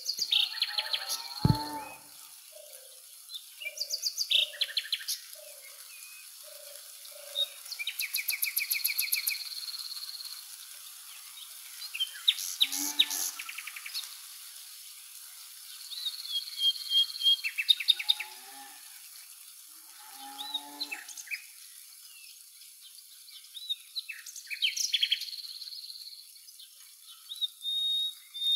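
Several birds chirping, trilling and whistling in bursts every few seconds, with a run of short low notes in the first few seconds and a brief low sound about a second and a half in.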